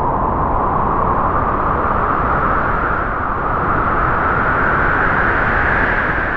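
A strong gust of wind blowing, its whistle rising slowly in pitch as it holds, then starting to die away at the end.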